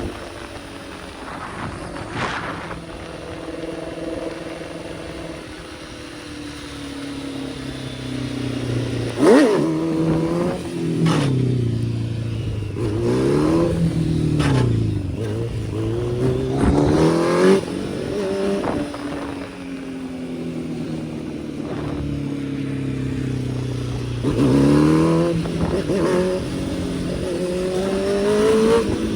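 Kawasaki ZX-10R sport motorcycle's engine heard on the ride, its pitch sliding down as it rolls off and then rising and falling quickly several times as it is revved hard, with a few sharp cracks among the revs.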